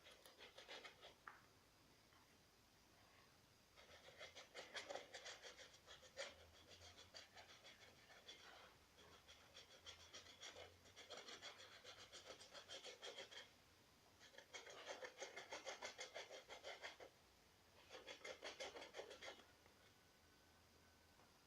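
A paintbrush dabbing and scrubbing quickly against a plastic bottle, in several bursts of rapid scratchy strokes with short pauses between them.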